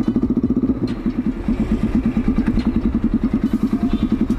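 Motorcycle engine running at low revs with an even, fast pulsing beat.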